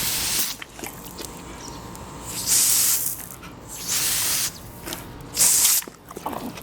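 Garden hose spraying water in four short, loud spurts of hiss.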